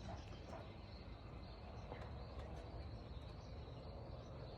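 Quiet outdoor ambience: faint insect and bird chirps over a low steady rumble.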